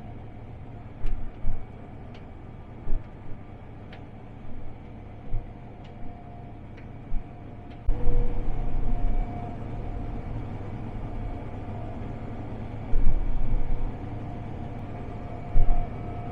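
Combine harvester running while cutting wheat: a steady low drone with a faint steady whine, punctuated by irregular short knocks and clicks. The drone gets louder about halfway through.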